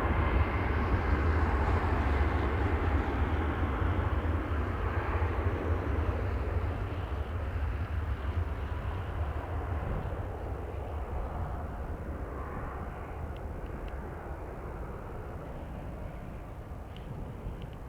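Jet airliner's engines roaring and fading steadily as it climbs away after takeoff.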